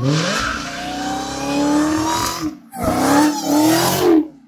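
A 2016 Dodge Hellcat's supercharged 6.2-litre V8 accelerating hard past the listener, its pitch climbing steadily. About two and a half seconds in it dips briefly as it shifts up, then it climbs again. Near the end the pitch falls and the sound drops away sharply.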